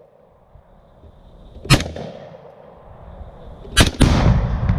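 Two rifle shots from a Sig Sauer M400 AR-15-style rifle, about two seconds apart. The second shot is followed almost at once by a heavier blast and a long, low rumble: a binary exploding target (Tannerite) detonating.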